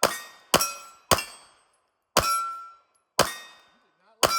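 Pistol fired six times at steel targets, each sharp shot followed by the ringing clang of a struck steel plate. The first three shots come in quick succession about half a second apart, and the last three are spaced about a second apart.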